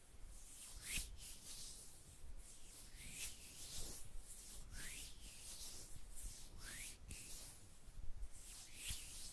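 Soft rubbing strokes close to the microphone, repeated about once a second, each a short hiss, some with a slight rising or falling sweep.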